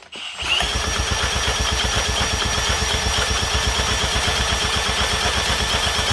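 A 1960s Mercury outboard being cranked over by an electric drill on the flywheel for a compression test: a steady drill whine over the engine's fast, even pulses, starting about half a second in. The owner finds the compression reading low, near 60 psi.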